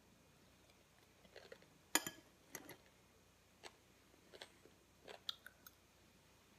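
Quiet eating sounds from asparagus being bitten and chewed off a fork: a handful of short crunches and clicks, the sharpest about two seconds in.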